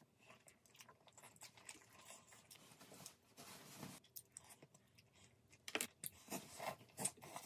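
Faint close-up eating sounds: chewy rice cakes being chewed, with soft mouth sounds and a few sharper clicks near the end.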